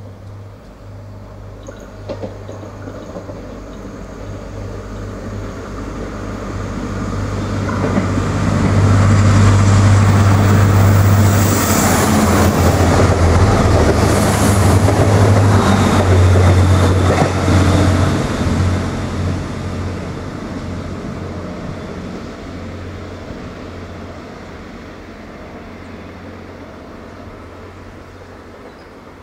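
Commuter train passing close along a station platform: wheel and running noise builds, is loudest for several seconds in the middle, then fades as it moves away, over a steady low hum.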